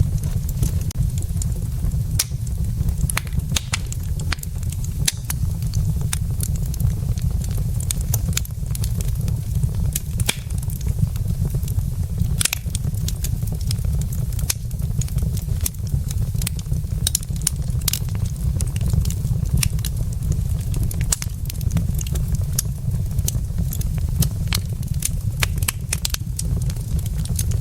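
Burning wood logs in a fireplace crackling, with irregular sharp pops and snaps over a steady low rumble.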